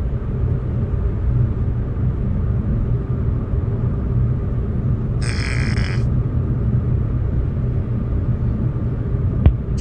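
Steady low rumble, with one short hissy burst about five seconds in.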